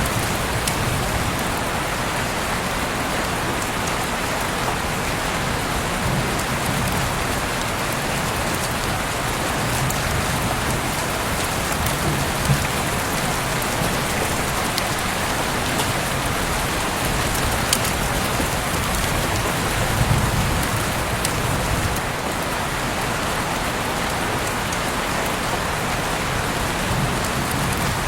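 Heavy rain falling steadily, with the odd sharp drop tap standing out now and then.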